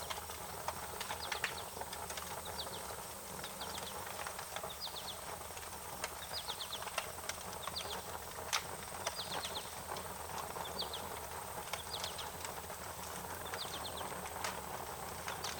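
Wood fire crackling with scattered sharp pops and snaps over a steady hiss, while a bird keeps repeating short chirps of a few quick falling notes, about once a second.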